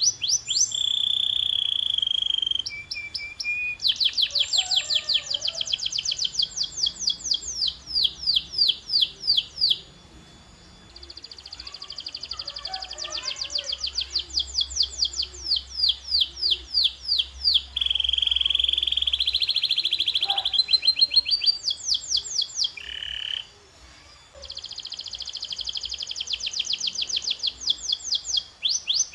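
Domestic canary singing: long rapid trills of the same short high note repeated many times a second, changing from one trill to the next, with a few held whistled notes between them.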